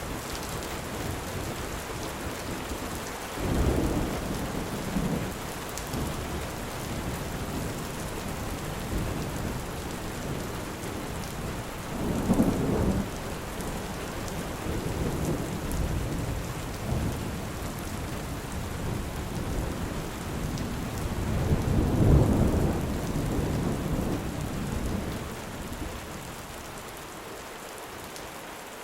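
Steady rain with thunder rumbling three times: about four seconds in, about twelve seconds in, and most loudly about twenty-two seconds in.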